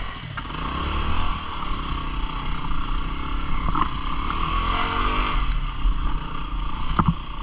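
A 250 cc single-cylinder dual-sport motorcycle engine running under a steady rushing noise, its pitch rising and falling a few times as the throttle is worked.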